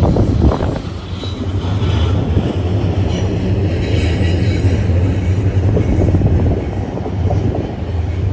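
BNSF double-stack container train rolling past: a steady, loud rumble of steel wheels on rail, with faint wheel squeal now and then.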